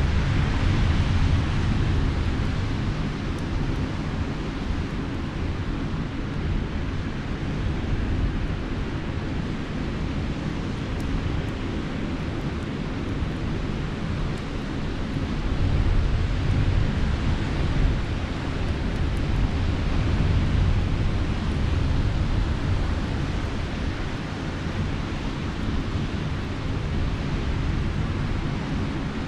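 Surf washing on the shore with wind rumbling on the microphone, swelling and easing, and a few faint crackles from a campfire.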